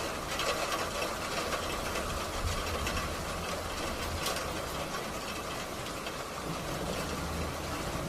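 Heavy rain and hail falling in wind: a steady hiss with a low rumble and scattered sharp ticks.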